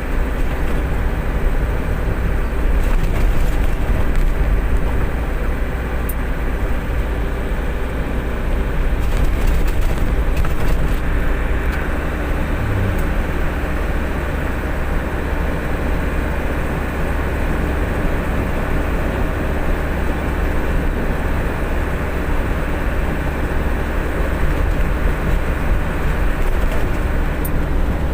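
A truck's engine running steadily, a constant low drone with road or engine noise and no changes in pitch.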